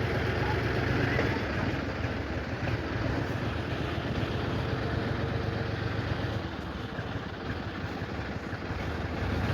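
Diesel engine of heavy machinery running steadily with a low, even drone.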